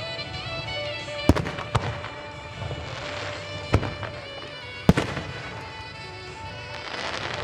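Aerial firework shells bursting with four sharp bangs in the first five seconds, the later ones followed by a short rumble, over background music with a melody that plays throughout.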